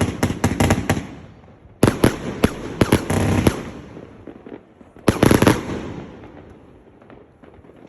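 A 100-shot, 1.2-inch fireworks cake firing in three rapid volleys of sharp bangs with short pauses between them, the last volley about five seconds in, followed by a faint patter of small pops.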